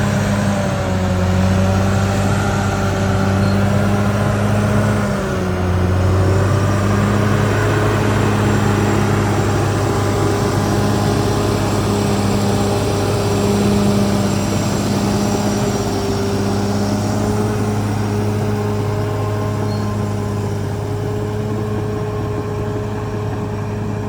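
Caterpillar D6R XL bulldozer's diesel engine running steadily under load, with a brief dip in engine pitch about five seconds in.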